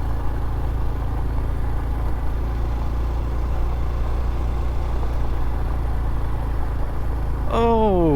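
Honda CT125's small air-cooled single-cylinder engine running steadily. Near the end, a short pitched sound slides down in pitch.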